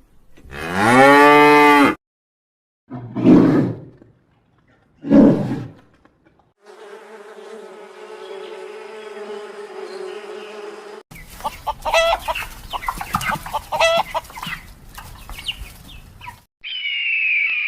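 A cow mooing, one long call followed by two shorter ones, then a series of other animal sounds. A steady pitched drone is followed by a few seconds of rapid chirps and clicks, and a high call begins near the end.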